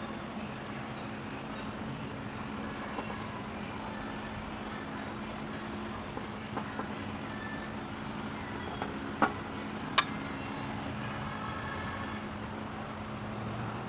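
A steady mechanical hum with a constant low tone, broken by two sharp clicks or knocks about nine and ten seconds in; the second click is the loudest sound.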